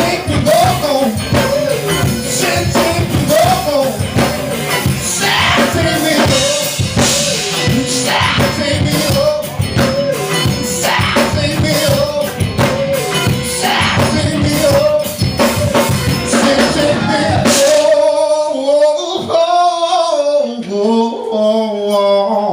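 Live band playing a song with drum kit under a male lead vocal; about eighteen seconds in the band drops out and the singer carries on alone with long, bending held notes.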